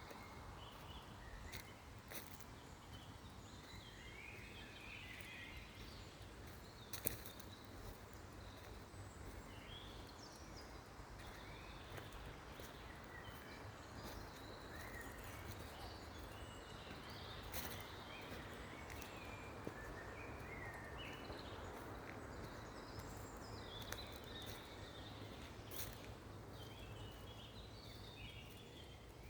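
Birds chirping faintly and intermittently over a steady low rumble of outdoor background noise, with a few sharp clicks.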